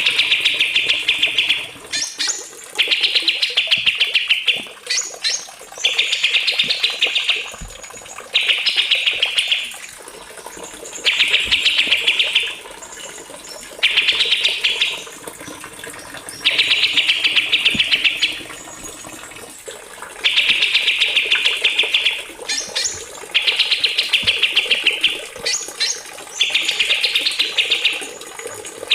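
Small songbird singing rapid, trilled song phrases, each about a second and a half long, repeated about ten times with short gaps, and brief high sweeping notes between some phrases.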